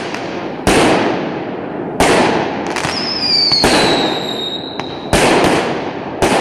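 Aerial fireworks bursting in quick succession: about seven sharp bangs, each trailing off. A high whistle from a whistling shell slides down in pitch for about two seconds in the middle.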